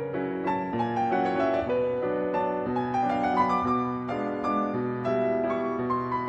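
Background piano music: a gentle melody with flowing runs of notes stepping downward.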